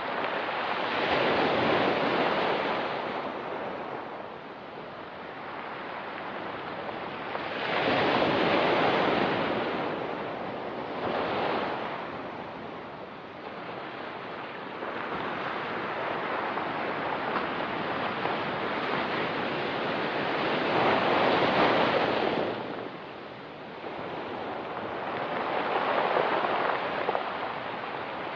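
Ocean waves breaking and washing on a rocky pebble beach, a surge of surf every five to seven seconds with a steady wash in between.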